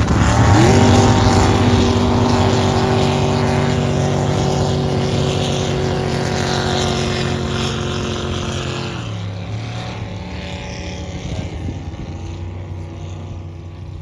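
Drag boat engines at full throttle during a race run. The revs climb in the first second, hold one steady high note for about eight seconds, then drop away about nine seconds in, leaving a quieter, lower engine sound.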